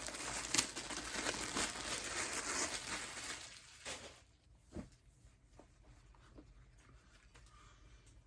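Packaging crinkling and rustling as the hoodie is handled. The crackling is dense for about four seconds, then stops, leaving only a couple of soft knocks.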